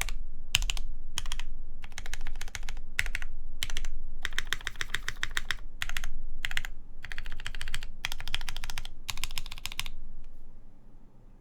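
Typing on a Keycult No. 1 Rev. 2 custom mechanical keyboard with lubed JWicks linear switches, a polycarbonate plate and GMK keycaps: quick runs of keystrokes in spurts with short pauses, stopping about ten seconds in.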